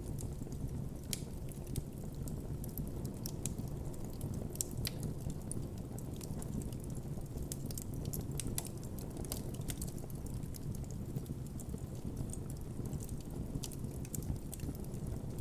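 Wood campfire burning with a steady low rumble of flames and irregular sharp crackles and pops of burning wood.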